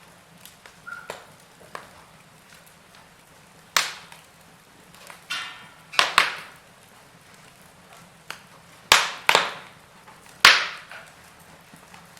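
Wood fire of burning logs crackling, with a handful of loud, sharp pops spread irregularly over a faint background crackle.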